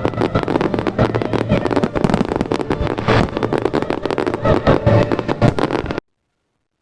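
Fireworks going off in a dense, rapid barrage of bangs and crackles. The sound cuts off completely about six seconds in.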